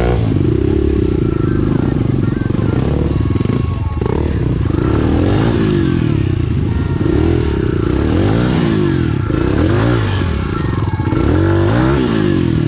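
Enduro dirt bike engine running close by, its pitch rising and falling again and again as the throttle is opened and closed, with the changes coming quicker in the second half.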